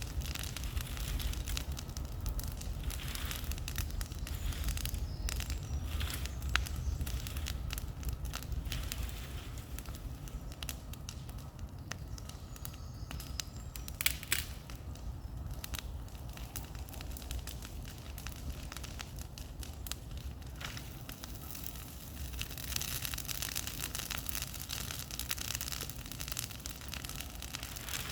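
Bonfire of brush crackling and popping irregularly over a steady low rumble, with one sharper pop about halfway through.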